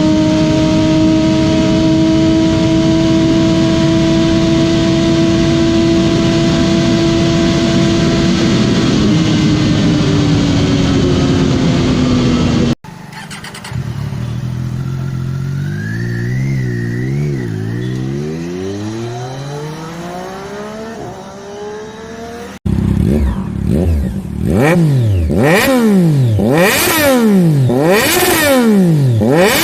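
Triumph Daytona 675R three-cylinder engine. First it is held at high revs at speed, its pitch steady, then falling as it eases off. Next, in a quieter clip, it accelerates with its pitch rising and dropping through gear changes, and finally it is revved hard in quick repeated blips, about one a second.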